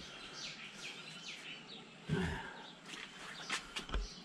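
Small birds chirping repeatedly in short, falling notes. There is a dull thump about halfway through and two sharp knocks near the end.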